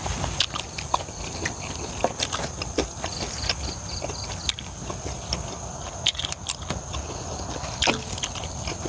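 Close-up chewing of a mouthful of Isan pork blood-and-offal salad (lueat plaeng), with many short wet smacking and crunching clicks at irregular intervals.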